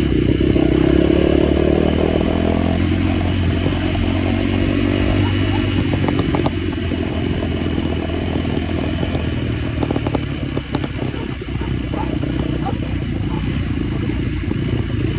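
Small motorcycle engine running, its pitch shifting with the throttle in the first few seconds, then steadier.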